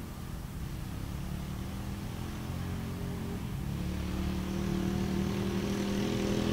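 Dirt bike engine running, growing steadily louder over the second half.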